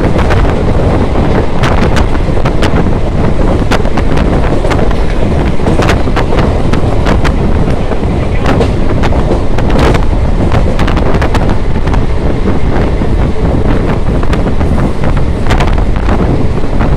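Running noise heard from aboard a moving train: wind buffeting the microphone over a steady low rumble of wheels on rail, with sharp clacks at irregular intervals.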